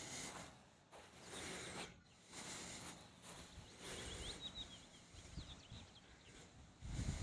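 Faint outdoor ambience: a soft rustling hiss that swells and fades about once a second, with a short run of quick, high bird chirps about four seconds in.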